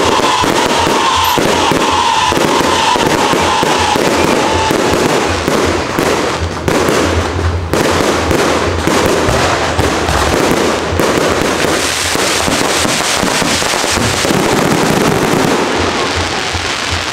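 Aerial fireworks display: a dense, continuous run of shell bursts banging overhead, with crackling in the middle stretch. A slowly falling tone sounds through the first few seconds.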